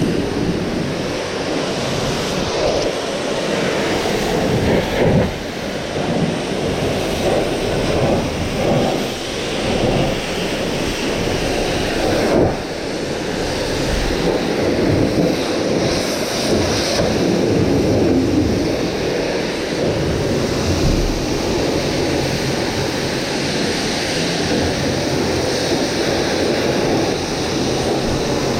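Pressure washer spraying water against a fiberglass truck camper shell: a loud, steady rush of spray that wavers as the jet moves over the surface, with a low steady hum from the washer's motor beneath it.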